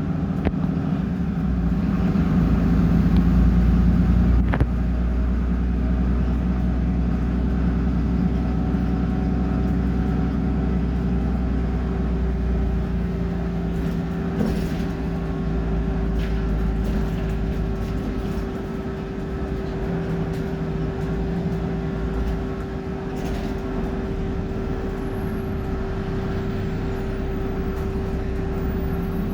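Cummins diesel engine of a BMC Procity city bus running steadily with a low drone and a steady hum, a little louder in the first few seconds; a single sharp click about four and a half seconds in.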